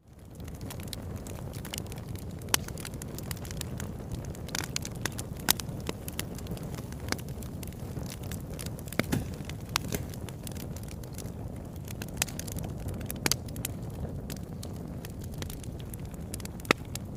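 Wood fire burning in a fireplace: a steady low rumble of flames with irregular sharp crackles and a few louder pops. It fades up from near silence at the very start.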